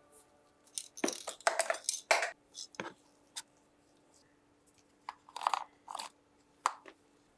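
Workshop hand-work on a small model part: a quick run of sharp clicks, scrapes and crunches about a second in, a couple of single ticks, then another short cluster around five to seven seconds in, over a faint steady hum.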